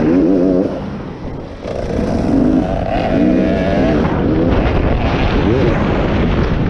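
Beta 300RX two-stroke motocross bike engine revving up and down as it rides, easing off about a second in and picking back up about two seconds in.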